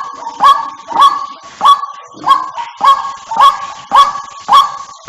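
White-breasted waterhen calling, as on a bird-lure recording: one harsh, honking note repeated evenly, a little under two a second.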